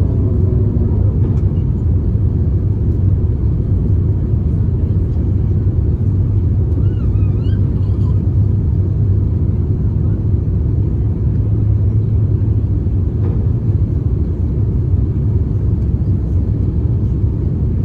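Airbus A350-900 cabin noise heard from inside: a steady low rumble of engines and airflow.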